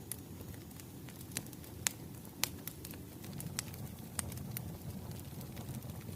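Wood fire crackling: sharp, irregular pops roughly every half second over a steady low rumble of flames.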